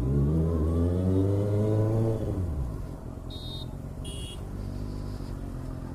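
Kawasaki ZX6R inline-four sport-bike engine revving: the pitch climbs steadily for about two seconds, then drops back and runs on at a lower, steady note. Two short high-pitched beeps come about three and a half and four seconds in.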